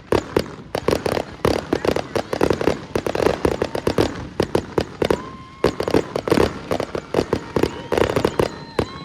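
Fireworks show: a dense barrage of bangs and crackles going off several times a second, with a few held high whistling tones midway and near the end.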